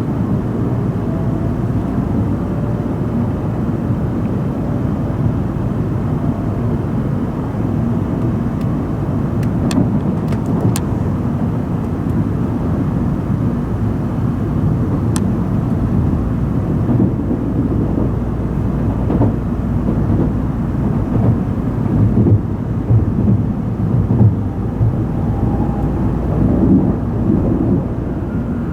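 Cabin running noise of an N700-series Shinkansen train: a steady low rumble of the train at speed, with a few sharp clicks about ten seconds in and again a few seconds later.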